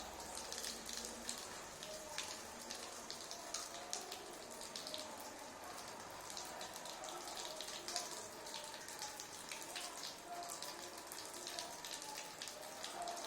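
A budgie splashing in water as it bathes: a continuous patter of small droplet splashes and flicks.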